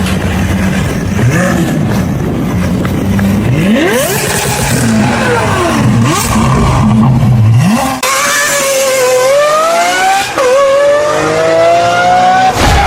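V12 supercar engine: a low running note with quick rising revs in the first half. Then a high engine note climbs under hard acceleration, drops sharply at a gear change about ten seconds in, and climbs again.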